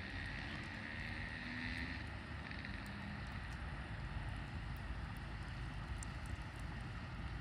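Wood campfire burning: a steady low rush of flame with scattered faint crackles and pops.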